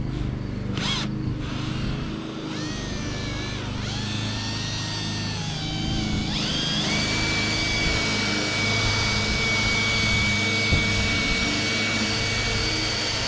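Cordless drill spinning a buffing pad against a headlight lens to apply restorer compound. Its motor whine wavers in pitch at first, then rises about halfway through and holds steady. A steady low hum runs underneath.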